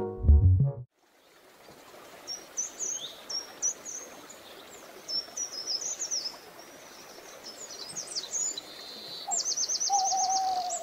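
A piano phrase ends in the first second. Then songbirds chirp over a steady outdoor hiss, with a fast trill of about ten notes a second near the end.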